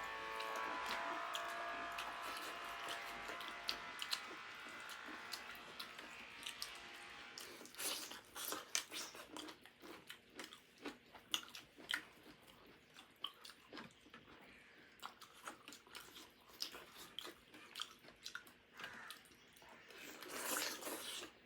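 Close-up chewing and crunching of crisp raw salad, cucumber, in irregular bites and munches that start about seven seconds in. Before that a faint steady hum fades away.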